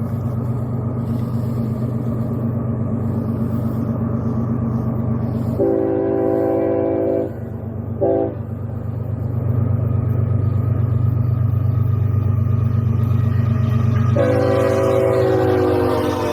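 Locomotive air horn sounding a long blast, a short one, then another long one over the steady rumble of an approaching train: the horn pattern blown for a grade crossing.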